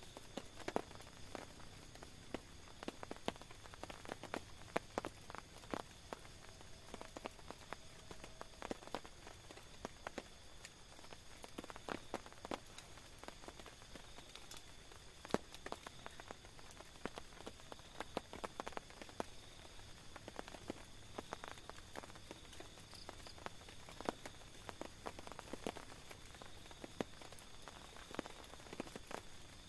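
Raindrops striking a tent in many irregular sharp taps over a soft steady hiss of rain, with a faint steady high tone running underneath.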